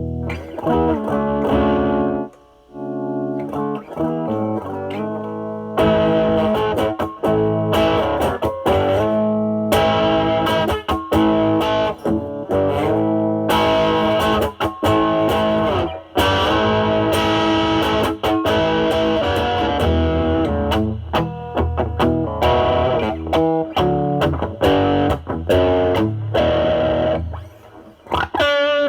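Semi-hollow electric guitar played through a NOBELS ODR-1 overdrive pedal, with bass-cut mod, drive at about 7 to 8 and level at max, into a Marshall Valvestate amp's drive channel. The sound is distorted chords and single-note lines, with a brief gap about two seconds in and the notes dying away near the end.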